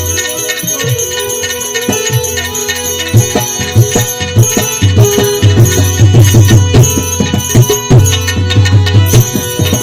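Instrumental passage of Gujarati devotional bhajan music: quick hand-drum strokes and jingling percussion over steady held notes, the drumming growing denser from about three seconds in.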